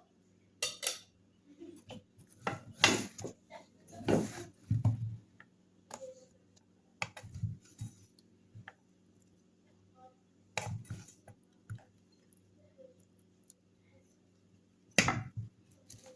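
Kitchen utensils and dishes clinking and knocking irregularly as taco fillings are put together. The loudest knocks come about three and four seconds in and again near the end, over a faint steady low hum.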